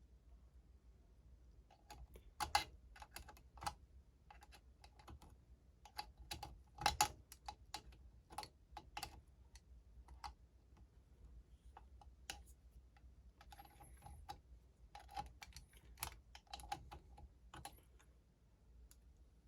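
Irregular light clicks and clinks of small metal engine parts being handled: the cam chain and camshaft sprocket of a Honda-type 100cc engine being shifted by hand to line up the timing marks. The sharpest clicks come about two and a half and seven seconds in.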